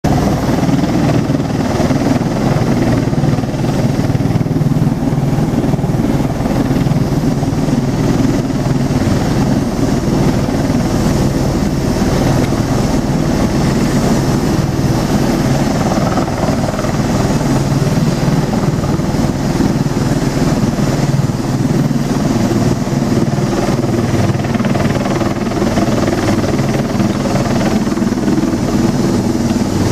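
Bell Boeing V-22 Osprey tiltrotor running: a loud, steady drone of its rotors and twin turboshaft engines, with several held low tones that do not rise or fall.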